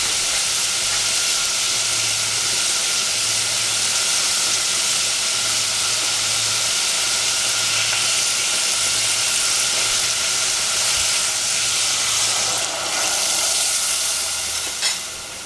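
Long beans frying in a stainless steel pot, a steady loud sizzle. Near the end, once stock is in the pot, the sizzle softens, and a couple of sharp clicks follow.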